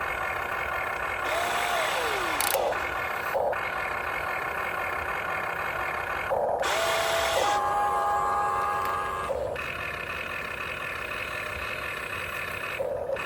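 Huina 1592 RC excavator's electric motors and gearboxes whining as it is worked, the whine cutting out briefly and starting again every few seconds as functions are switched, its pitch sliding down and back a couple of times.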